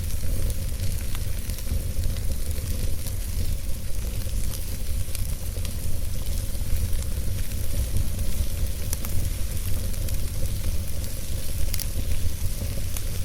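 Wood fire burning in a fireplace: logs crackling with scattered sharp pops over a steady hiss and a low rumble.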